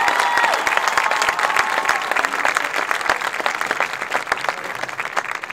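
A crowd applauding, the clapping thinning and fading out near the end.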